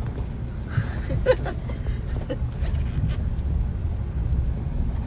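Car driving slowly over a rough, potholed dirt road: a steady low rumble with scattered knocks and rattles as the car jolts over bumps.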